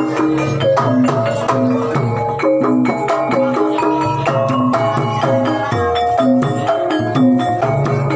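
Javanese gamelan music: struck metallophone notes ringing in a repeating melodic pattern over hand-drum strokes.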